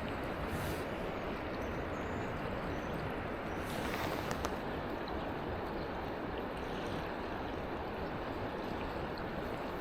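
River water rushing steadily, with a few faint ticks about four seconds in.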